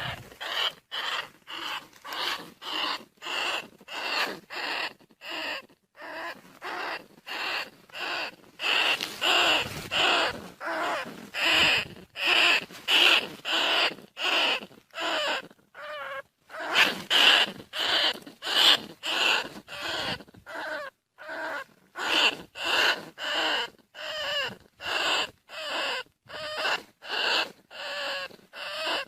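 Bandicoot rat squeaking: a long run of short squeaky calls repeated about twice a second, some louder than others.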